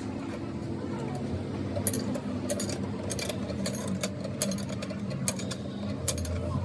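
A small motor running steadily, with scattered sharp metallic clicks.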